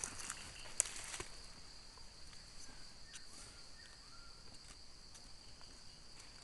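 Steady high-pitched drone of forest insects, with a couple of sharp clicks about a second in and faint short chirps in the middle.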